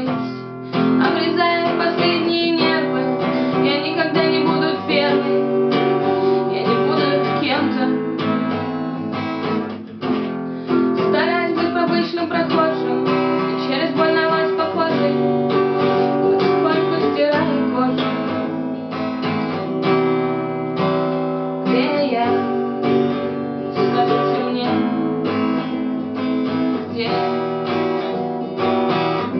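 Music led by strummed acoustic guitar, a song's instrumental passage.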